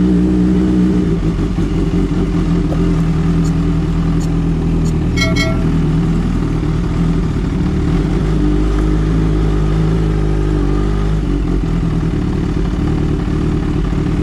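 Kawasaki Ninja H2's supercharged inline-four running steadily under way, loud against the camera microphone. Two short beeps about five seconds in.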